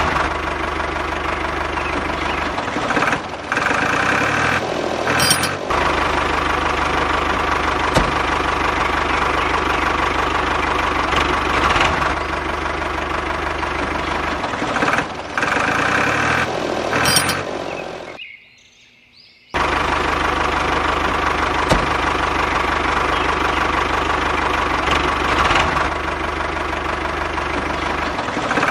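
RC backhoe loader running, a steady engine-like drone that shifts in tone a couple of times as the machine works. It cuts out for about a second and a half about two-thirds of the way through, then resumes.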